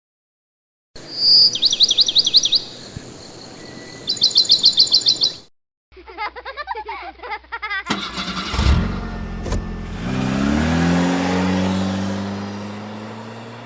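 A songbird singing two quick trilled phrases of rapid repeated high notes. After a cut, a motor vehicle's engine runs and revs, its pitch climbing.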